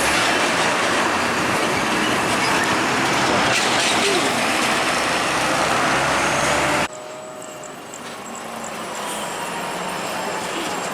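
Heavy trucks passing on a highway: loud, steady road and engine noise that cuts off abruptly about seven seconds in, followed by quieter traffic noise building slowly.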